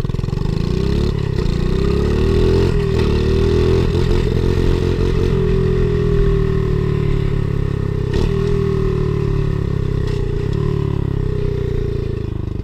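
Pit bike's small single-cylinder engine running hard while riding, its pitch climbing over the first couple of seconds, dipping briefly about eight seconds in and dropping off near the end. A few sharp knocks and clatter come through along the way.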